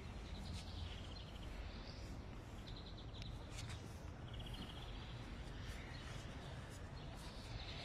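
Steady outdoor background noise with a small bird singing a short, rapid trill three times.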